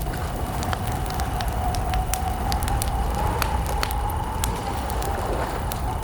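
Wood campfire crackling, with frequent sharp pops at uneven intervals over a low rumble.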